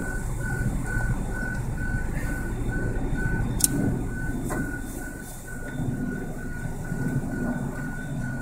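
Level crossing warning bell sounding a single high electronic tone, beeping evenly about twice a second, over a low steady rumble. One sharp click about three and a half seconds in.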